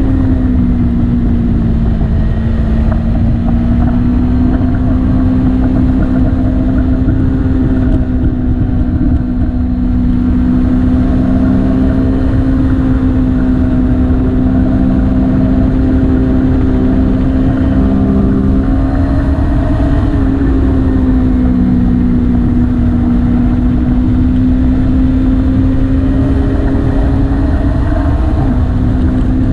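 Motorcycle engine running steadily under way, its pitch easing down slightly twice and then holding.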